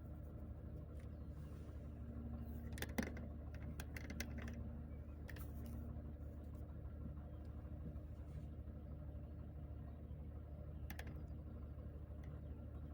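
Car interior on the move: a steady low rumble of engine and road, with scattered light clicks and knocks of trim rattling. The loudest knock comes about three seconds in.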